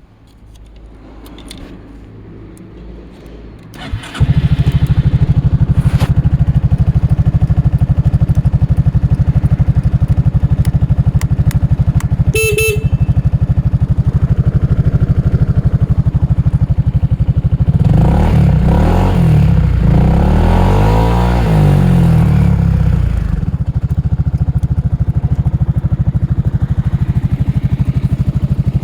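Honda Forza scooter engine starting: it catches about four seconds in and settles into a steady idle. A short horn toot comes about a third of the way through, and the engine is revved up and down several times past the middle before returning to idle.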